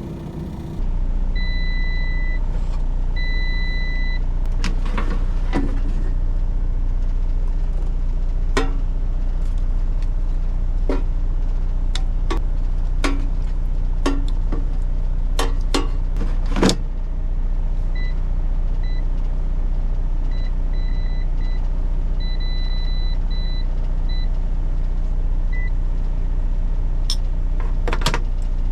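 Air fryer starting up about a second in and running with a steady low fan hum. It gives two longer electronic beeps near the start and a string of short beeps later, with sharp clicks and knocks throughout.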